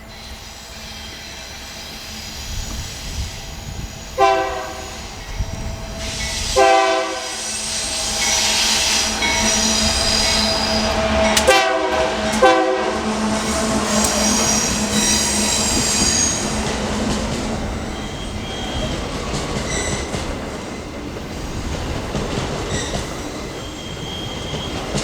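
Diesel freight locomotive passing with four short horn blasts, two a couple of seconds apart and then two more close together about twelve seconds in, over a steady engine drone. Squealing wheels of the empty pulp wagons follow as the train rolls by.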